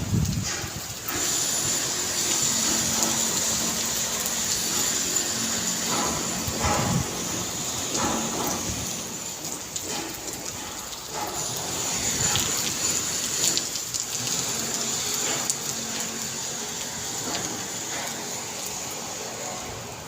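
Heavy rain falling as a steady hiss, with a few brief ticks and splashes in it.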